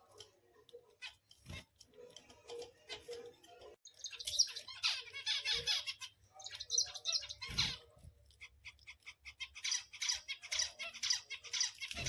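Zebra finches calling in quick, chattering bursts of rapid high-pitched notes, three bursts a second or two long starting about four seconds in, with a few soft knocks in between.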